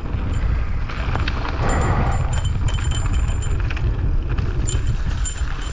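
Wind buffeting the microphone and tyre noise from a mountain bike rolling down a dirt trail, with light rattling ticks from the bike.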